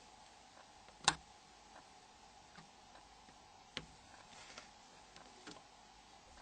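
A few small, sharp clicks from handling a phone's plastic parts: the loudest about a second in, others near four and five and a half seconds. A faint steady hum runs underneath.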